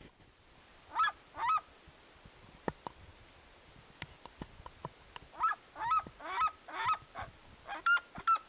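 A series of short honking animal calls: two about a second in, then a quick run of several more in the second half, with a few faint clicks between them.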